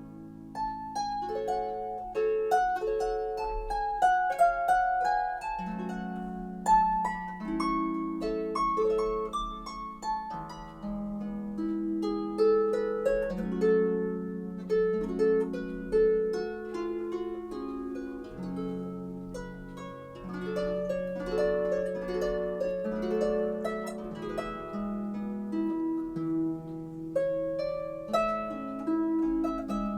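Solo harp music: a melody of plucked notes over held low notes, played at an even gentle pace.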